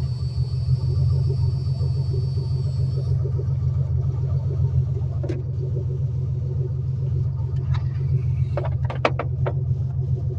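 Nissan VG30 3.0-litre V6 engine idling steadily just after a cold start, a continuous low rumble. A faint high whine stops about three seconds in, and a few short clicks come near the end.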